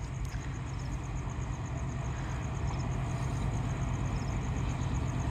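Low, steady rumble of an approaching train led by a Blue Tiger diesel-electric locomotive, growing slowly louder. A faint high chirp repeats evenly in the background.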